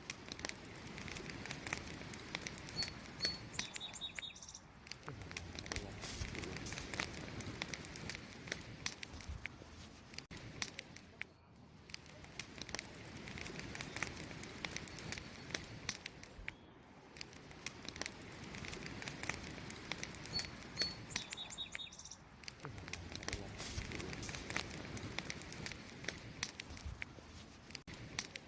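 Wood campfire crackling and popping continuously, its level swelling and easing every few seconds. A bird chirps briefly a few seconds in and again about two-thirds through.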